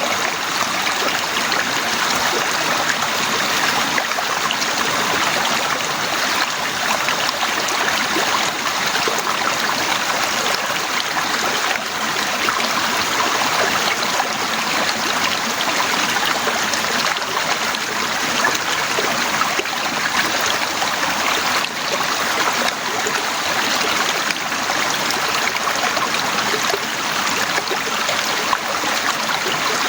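Heavy rain falling steadily: a constant, even hiss with countless small drop hits mixed in.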